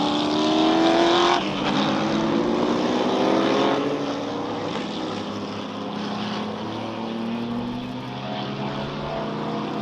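Racing sports car engines running hard at full throttle, their pitch climbing as they accelerate. The sound changes abruptly about a second and a half in and again near four seconds.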